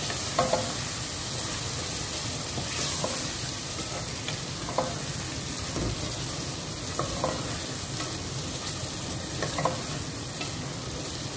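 Chopped tomatoes and browned onions frying in hot oil in a metal pot, sizzling steadily, as the tomatoes are fried down into the onions. A spatula stirs the mix, with short scrapes against the pot every second or two.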